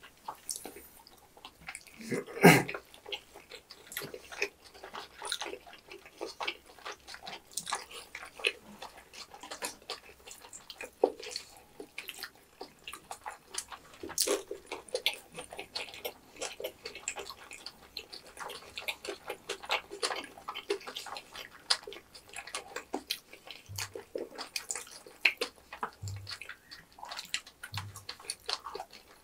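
Close-miked eating sounds: chewing tteokbokki in thick sauce, with many small mouth clicks and smacks and chopstick taps on the dish. One loud knock about two and a half seconds in.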